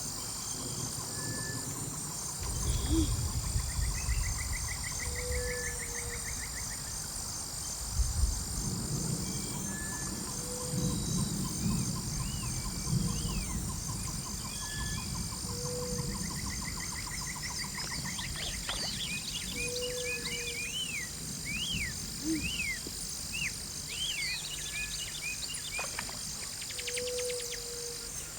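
Forest ambience: a steady high insect chorus with a short low call repeating every two to three seconds. Gusts of wind rumble a few seconds in and again through the middle. In the second half, birds chirp in quick rising-and-falling notes.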